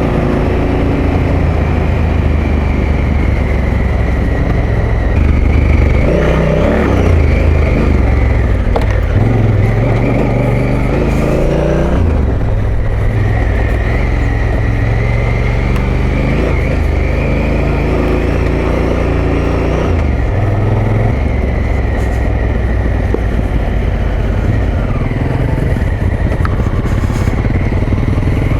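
Adventure motorcycle engine running under way on a ride, its pitch rising and falling a few times with throttle and speed.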